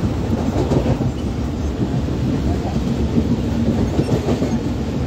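A MEMU electric multiple-unit train running along the track, heard through an open coach window: steady wheel-on-rail running noise with occasional clacks from the rail joints.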